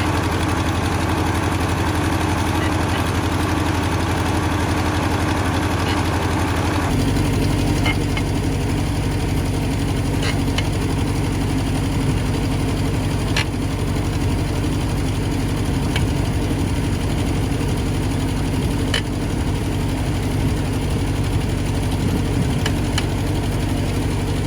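Four-cylinder tractor engine running steadily. Its note changes abruptly about seven seconds in, and a few sharp clicks sound after that.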